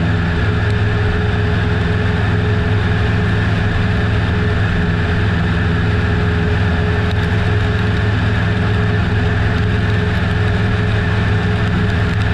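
Piper Super Cub PA-18-150's Lycoming O-320 four-cylinder engine and propeller running steadily in cruise flight, an even drone with no change in pitch or power.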